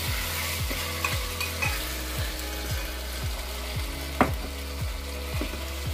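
Chopped tomatoes and onions sizzling in hot oil in a pressure cooker while a steel ladle stirs and scrapes through them. A sharp clink of the ladle against the pot comes about four seconds in.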